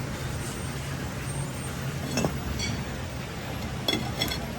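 A steady low engine hum with a few short metallic clinks, about two seconds in and again near the end.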